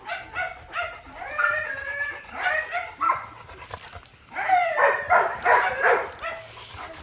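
Dogs barking and yelping in short repeated calls, with a louder, denser run of barks about four and a half seconds in.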